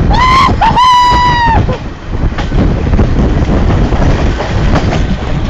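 Train running with loud rumbling noise and wind on the microphone. In the first second and a half, two shrill high-pitched held tones, the second about a second long.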